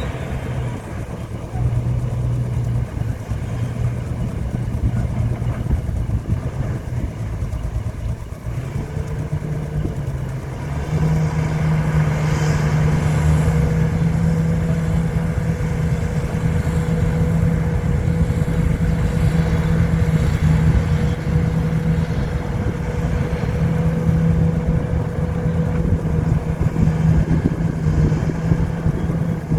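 Old Komatsu bulldozer's diesel engine running steadily, then rising in pitch and getting louder about ten seconds in and holding at the higher revs as it works.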